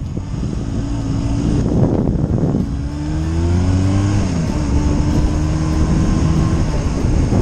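1981 Kawasaki KZ440's parallel-twin engine accelerating from a turn. Its pitch climbs, then drops at upshifts about two and a half and four and a half seconds in, and it runs steadily after that.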